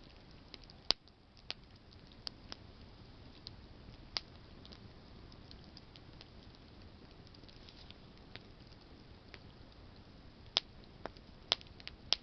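Wood campfire crackling: irregular sharp pops of burning branches over a steady low hiss of the fire, with the loudest pops about a second in and near the end.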